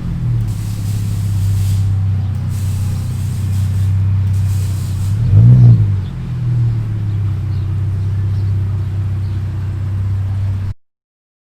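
2017 Dodge Challenger's 3.6-litre V6 idling through a straight-piped exhaust with the rear mufflers deleted, with one quick rev about five and a half seconds in. The sound cuts off suddenly near the end.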